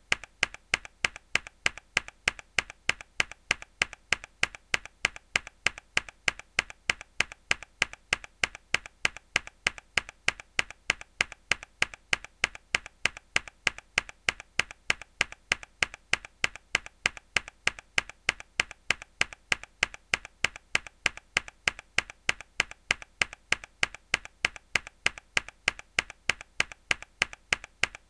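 A mechanical keyboard key pressed hard over and over at an even, quick rhythm: sharp clicky keystrokes, loud and softer clicks alternating.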